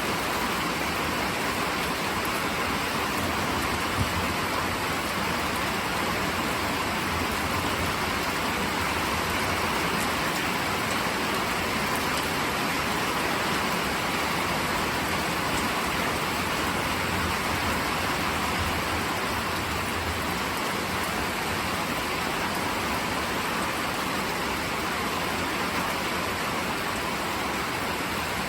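Steady rain falling, an even, unbroken hiss, with a single sharp tick about four seconds in.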